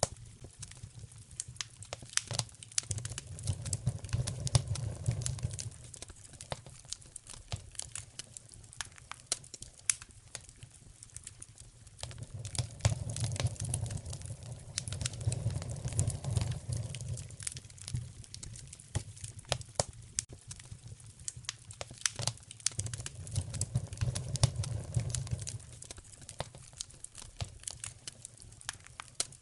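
Wood fire crackling in a fireplace, with sharp pops scattered throughout. A low rushing swells up and dies back three times.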